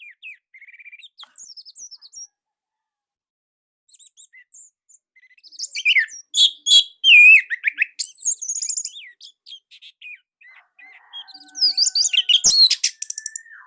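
Orange-headed thrush singing quick, varied phrases of chirps and whistles: soft at first, then loud bursts about six seconds in and again near the end. Near the end a steady high tone holds briefly, and there is one sharp knock.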